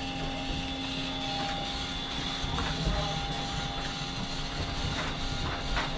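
Choshi Electric Railway train sounds: a steady electrical hum under a rumbling noise floor, with a couple of sharp clicks near the end.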